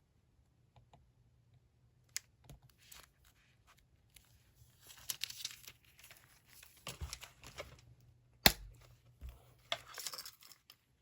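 Paper being handled on a desk: crinkling and tearing sounds with scattered short clicks, the loudest a single sharp click about eight and a half seconds in.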